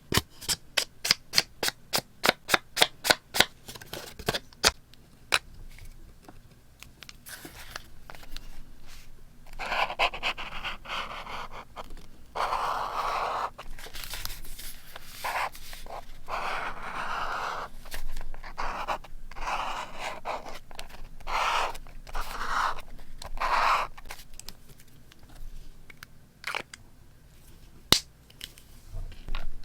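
Scissors snipping paper in a quick run of sharp clicks, about five a second, for the first few seconds. Then paper is scraped and rustled in a series of bursts, with a few single clicks in between.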